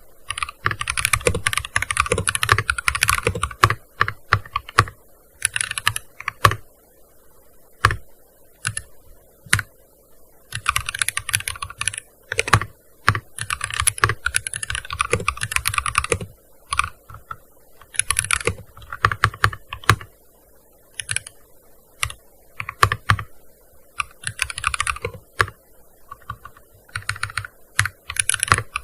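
Typing on a gaming keyboard: fast runs of keystrokes broken by short pauses, with single key presses in between.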